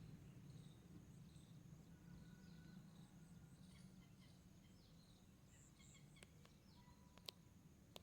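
Faint, short, high bird chirps scattered over a steady low hum, with a sharp click about seven seconds in.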